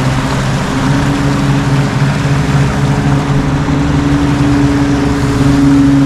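A motor running steadily, a droning hum whose pitch creeps slightly upward, over a rushing noise.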